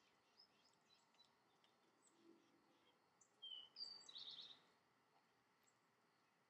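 Faint birds chirping outdoors, with a short, louder run of quick high chirps about halfway through.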